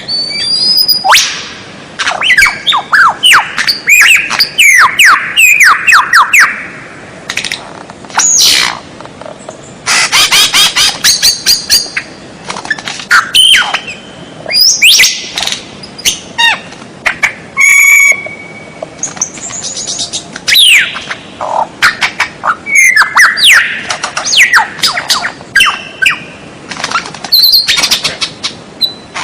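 White-rumped shama singing a loud, varied song: phrase after phrase of whistles, up- and down-sweeping notes, rapid trills and harsh notes, with short pauses between phrases.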